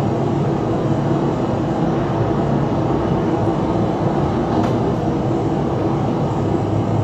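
Steady, loud rumbling noise from a played-back phone video clip, with no speech in it.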